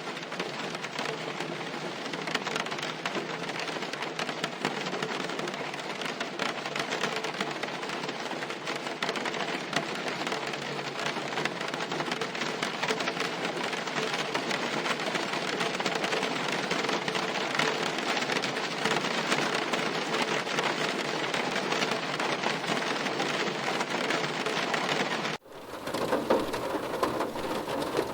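Steady rain falling in a continuous hiss. About 25 seconds in it cuts off abruptly and a different, slightly louder rain recording begins.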